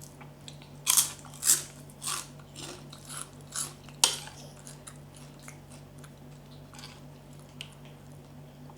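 Close-miked crunching and chewing of pounded santol fruit salad: several crisp, crunchy bites in the first four seconds, then softer, quieter chewing.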